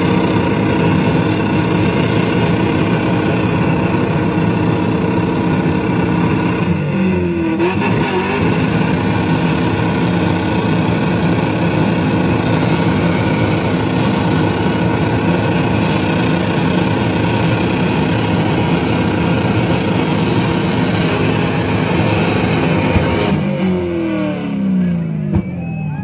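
Car engine held at high revs at a steady pitch, briefly dipping and recovering about seven seconds in, then the revs falling away near the end.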